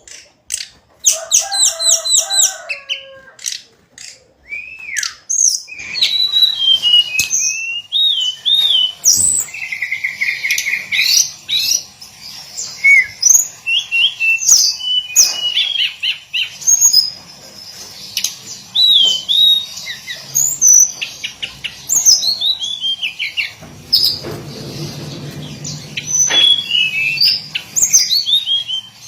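Hill blue flycatcher singing: a long, rapid run of varied whistled notes that slide up and down, with scarcely a break between phrases.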